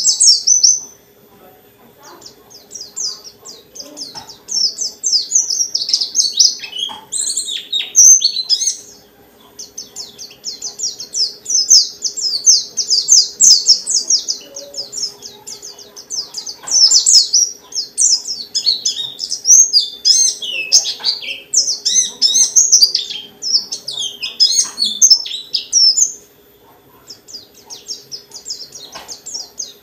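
Pleci dakun (white-eye) singing a long, rapid, high-pitched twittering song with varied notes. It breaks off briefly about a second in, again near nine seconds, and for a couple of seconds near the end.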